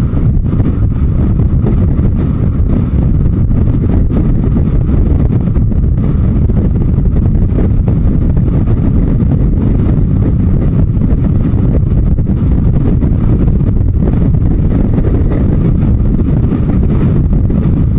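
Heavy wind noise on the microphone from a moving motorcycle, a steady low rumble with the Yamaha Diversion 900's engine running underneath.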